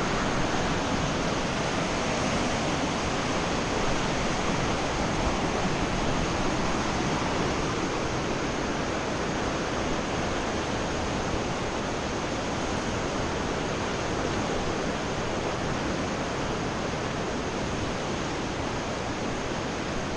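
River rapids rushing steadily, an even roar of water with no breaks.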